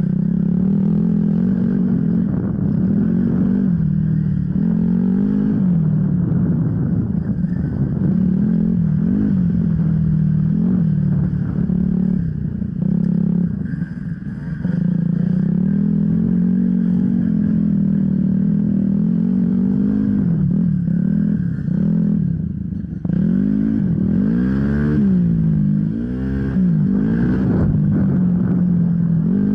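Off-road enduro motorcycle engine running hard with the revs constantly rising and falling as the throttle is worked, with quick rev sweeps up and down a little before the end, over the clatter of the bike on rough ground.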